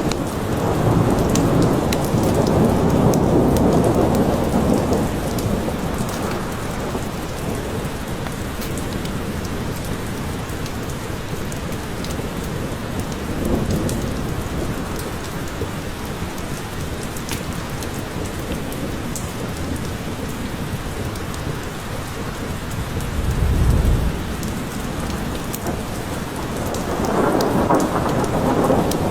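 Steady rain falling in a forest, with scattered drop ticks, and thunder rolling in low rumbles: a long one at the start, shorter ones about halfway and about four-fifths of the way through, and another building near the end.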